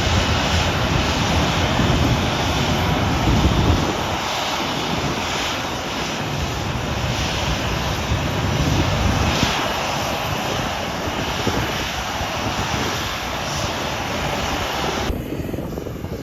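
Airliner engine noise: a loud, steady rush with a rumbling low end. The higher part of the sound drops away abruptly near the end.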